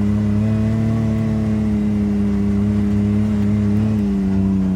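Vehicle engine running at a steady speed with an even drone, heard from on board while driving a dirt course. Its pitch eases down slightly about four seconds in.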